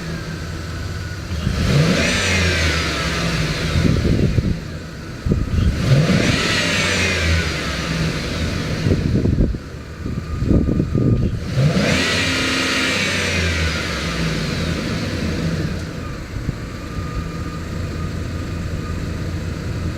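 2014 Chevrolet Express 2500 van's V8 engine idling and revved three times, about two, six and twelve seconds in. Each rev falls back to idle with a descending whine.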